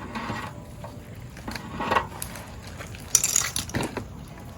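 Handling noises from camp cooking: a few knocks and clatters, with a short scraping rustle about three seconds in.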